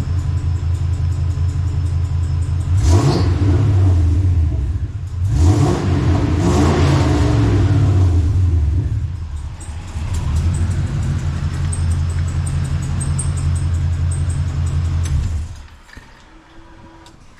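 Chevy Vortec 350 V8 in a Jeep Scrambler idling, revved briefly about three seconds in and again for a few seconds around the middle, then the engine sound stops suddenly near the end. It is running smoothly on newly replaced spider fuel injectors and fuel pressure regulator, and the owner takes the fault as fixed.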